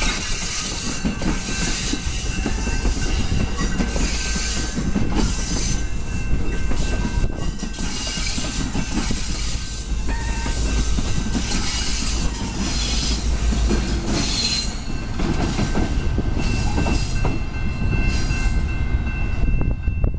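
Commuter train rolling past at close range, its cars' wheels rumbling steadily, clicking over rail joints and squealing thinly on the rails.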